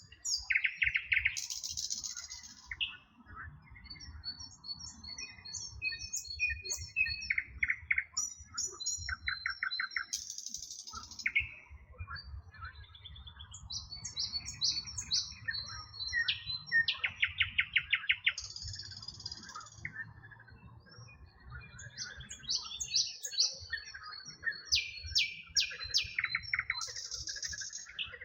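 Several songbirds chirping and singing together, with high repeated chirps and fast rattling trills overlapping. A low rumble runs underneath.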